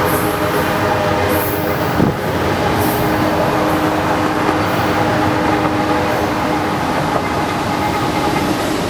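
Freight train running by, with a steady engine drone and a single sharp knock about two seconds in.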